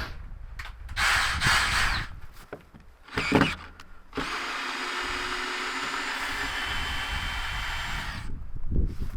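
A small power tool running steadily for about four seconds and then stopping abruptly, after a short noisy burst and a louder brief knock.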